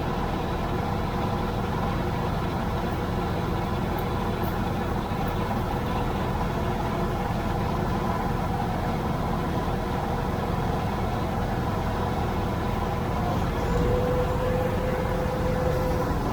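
Tractor engine running steadily under way, with a higher steady whine joining in near the end.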